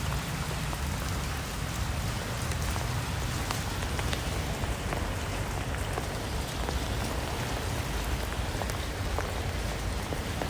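Steady rain falling, with many separate drops ticking sharply on a hard surface over an even hiss.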